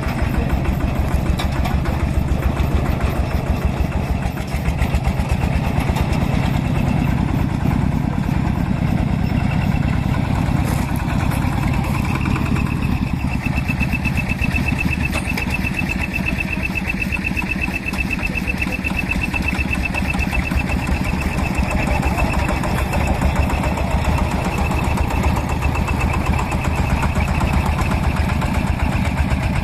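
Vintage stationary engines running steadily, with a fast, even train of firing beats. A thin, steady high whine joins about twelve seconds in and fades out about ten seconds later.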